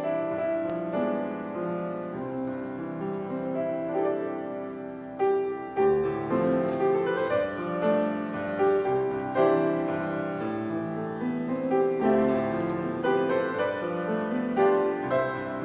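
Piano playing held chords, a new note or chord struck about every second.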